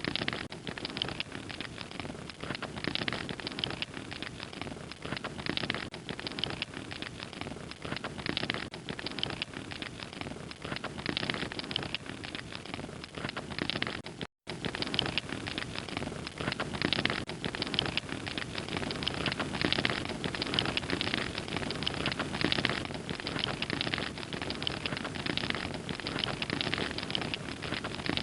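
Wood fire crackling steadily, with dense small pops and snaps over a soft hiss. The sound cuts out for an instant about halfway through.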